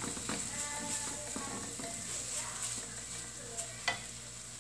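Blended chili, shallot and garlic paste sizzling as it fries in olive oil in a non-stick wok, with a silicone spatula stirring and scraping it around the pan. A single sharp click a little before the end.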